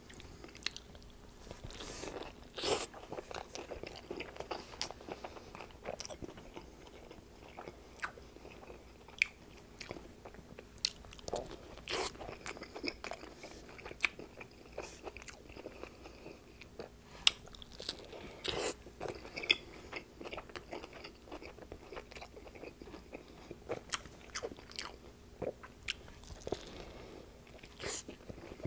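Close-miked biting and chewing of a homemade Subway-style Italian B.M.T. sub: irregular wet crunches and mouth clicks, with a few sharper crunches standing out.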